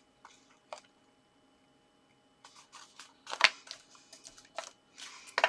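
Card pieces being handled and pressed together: two faint clicks near the start, then from about halfway a run of crisp paper rustles and taps.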